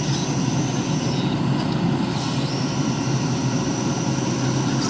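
A vehicle engine running steadily, with a thin high whine over a low drone; the whine drops out for about a second near the middle.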